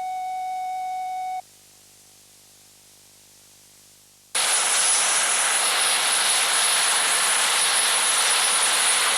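A steady test-type tone stops about a second and a half in, leaving faint hum. Then, about four seconds in, the noise of a Royal Navy Sea King helicopter's twin turboshaft engines and rotor cuts in suddenly: a loud, steady rush with a thin high whine.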